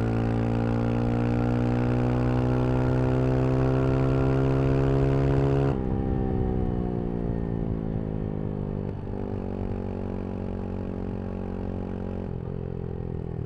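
Brixton Crossfire 125 XS motorcycle's single-cylinder engine pulling with slowly rising revs, then the throttle closes about halfway through and the engine note falls away as the bike slows, dropping in steps twice more.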